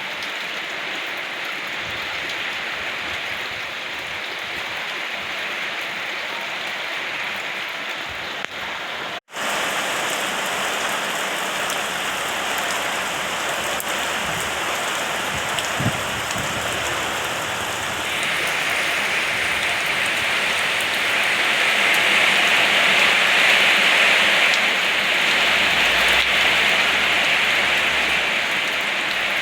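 Steady rain falling and pattering on surfaces. The sound cuts out for an instant about nine seconds in, then comes back a little louder, and grows heavier again from about eighteen seconds.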